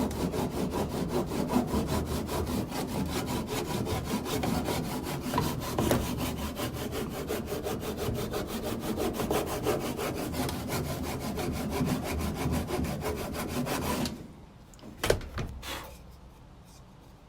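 Hand saw cutting through wood in rapid, even back-and-forth strokes, stopping about fourteen seconds in. A couple of short knocks follow.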